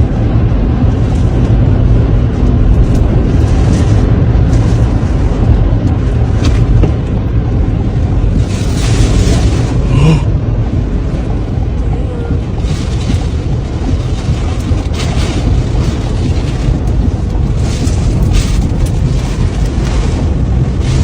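Tornado wind buffeting a phone microphone: a loud, steady low rumble, with gusts of hissing rush swelling about eight seconds in and again several times later.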